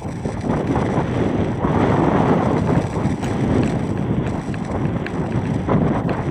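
Strong wind buffeting the microphone: a loud, uneven rushing noise that swells and dips, with a few faint ticks.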